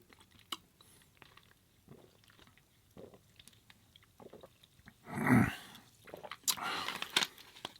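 Close-miked chewing, with small scattered mouth clicks, then a louder noisy mouth sound about five seconds in and a few more near the end.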